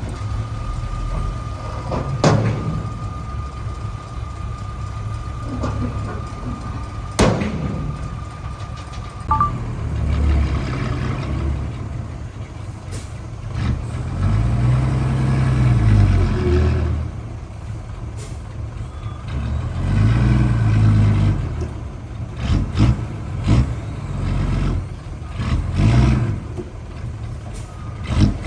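Heavy earthmoving machine's diesel engine running, with a steady high whine for the first nine seconds or so and two sharp knocks. In the second half the engine revs up and back down several times.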